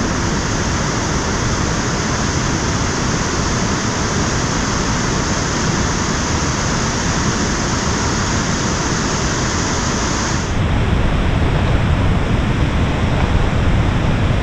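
Waterfall rushing: a loud, steady wash of falling water. About ten seconds in, the high hiss drops away and the low rumble grows stronger.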